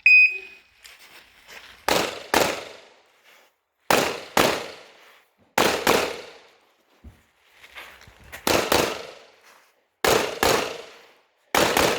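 Competition shot timer beeping once, then a Bul SAS II Open-division pistol fired fast in pairs of shots (double taps), about six pairs each ringing out briefly.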